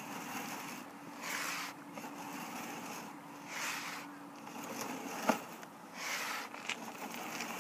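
Sewer inspection camera's push cable being pulled back out of a drain line in strokes: a rubbing swish about every two and a half seconds, with a sharp click in the middle, over a faint steady hum that fades about halfway.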